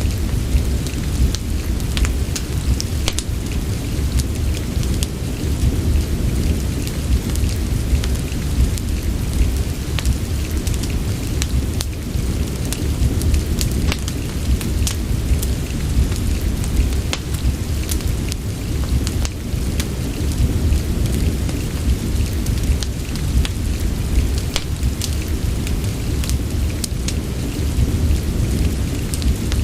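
Steady soft rain mixed with a crackling wood fire in a fireplace: a constant low rumble under frequent short, sharp crackles.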